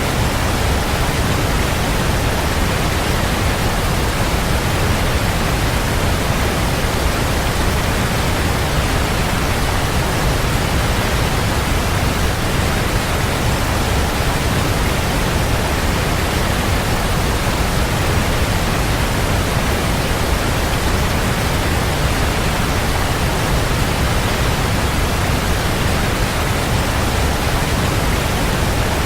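Waterfall: a steady, dense rush of falling water, heavy at the low end, with no change from start to end.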